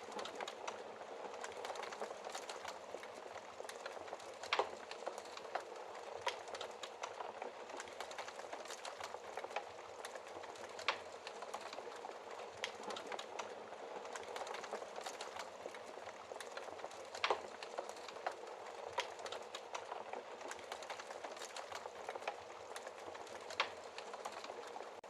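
Wood fire in a fireplace crackling steadily, with a dense run of small snaps and a few louder pops every several seconds.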